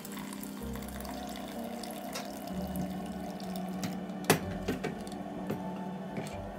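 Water running from a tap into a sink. A sharp clink comes a little past the middle, followed by a few lighter knocks.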